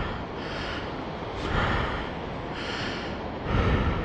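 A man's breathing close to the microphone: a few short, noisy breaths about a second apart.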